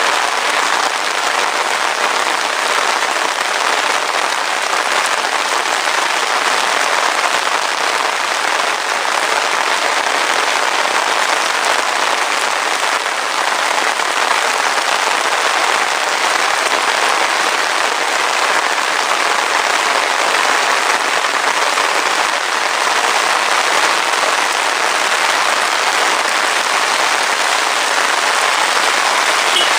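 Heavy rain falling steadily, a dense, even hiss of many drops with no break.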